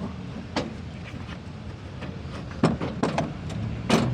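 A few sharp metallic knocks and clinks of parts and tools being handled while a truck clutch booster is taken apart, the loudest near the end, over a steady low rumble.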